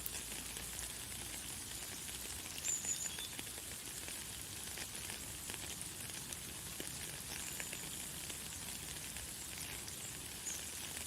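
Light, fine rain falling steadily, a dense crackling hiss of small drops. A few brief, high bird chirps come through, about three seconds in and again near the end.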